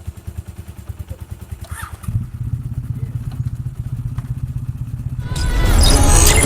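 Yamaha SR400's single-cylinder four-stroke engine running with a rapid, even low pulse, which gets louder about two seconds in. Music comes in over it near the end.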